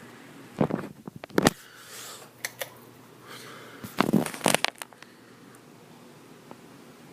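Two short spells of clattering and rustling, like objects being handled, about a second in and again about four seconds in, over a faint steady hiss.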